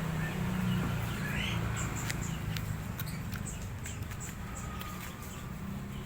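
Birds chirping: short, high chirps repeated over and over, with a few rising peeps, over a steady low hum.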